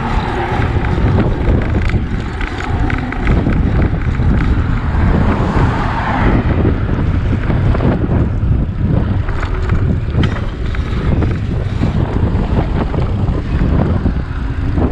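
Wind rushing over the microphone of a camera carried on a moving bicycle, a steady low rumble that goes on throughout.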